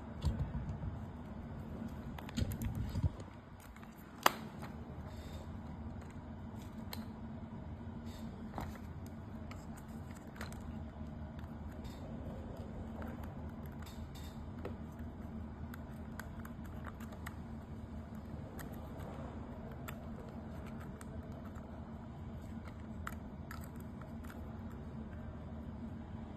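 Small clicks, taps and rattles of small parts and tools being handled during disassembly of an RC car, with a brief louder handling noise at the start and one sharp click about four seconds in, over a steady low hum.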